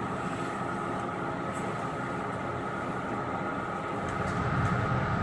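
Metro-North commuter train running along the track, heard from on board: a steady rumble and hiss with a faint steady high whine. The low rumble grows louder about four seconds in, as the train runs into a station platform.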